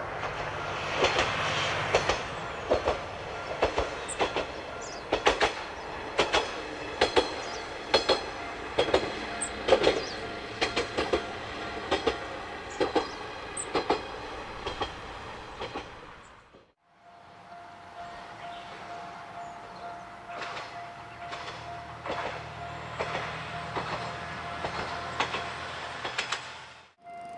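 Single-car diesel railcar of the Isumi Railway passing, its diesel engine running under the clickety-clack of wheels over rail joints, about one or two clacks a second. The sound drops away briefly about 17 s in, then comes back as a steadier engine drone with a thin steady tone and only a few clacks.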